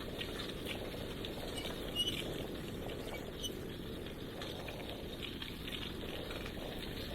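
Bicycle riding along a path: a steady rumble from the tyres and wind on the microphone, with a light crackling patter of small ticks and one sharper click about two seconds in.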